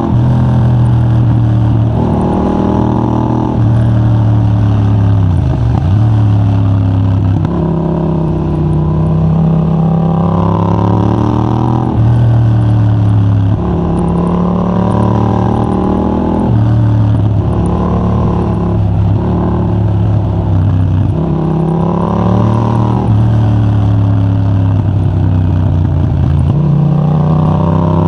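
Yamaha MT-07's 689 cc parallel-twin engine breathing through a de-catted Mivv GP Pro titanium exhaust with a 35 mm dB killer, ridden hard. The note climbs under throttle and drops sharply at each gear change or roll-off, over and over.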